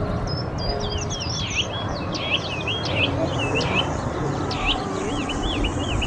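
Small birds chirping and twittering: a dense, continuous stream of short, high, quickly gliding calls over a steady low background rumble.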